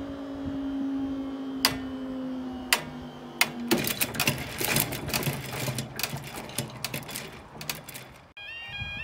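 A train passing over the crossing: a steady low engine note fades out, then a rapid clatter of wheels on the rails runs for several seconds. It cuts off abruptly near the end, giving way to music with a bright repeating melody.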